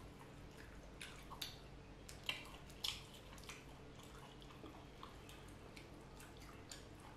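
Faint wet eating sounds of two people eating duck curry by hand: scattered lip smacks and chewing clicks, with the sharpest pair about two and three seconds in, over a low steady hum.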